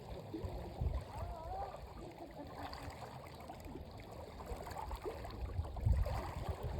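Water sloshing and lapping around people in the sea, with faint chatter of voices in the background and a few low thumps, the strongest about a second in and near the end.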